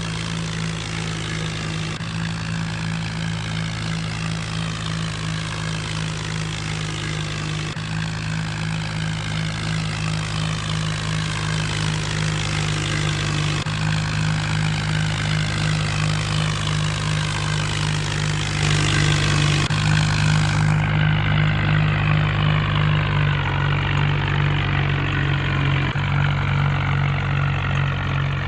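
HMT tractor's diesel engine running steadily, its low hum growing a little louder past the middle.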